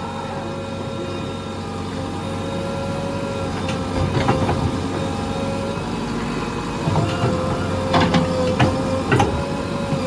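Heavy diesel engine running steadily, with a series of sharp clanks and knocks, a few about four seconds in and several more toward the end.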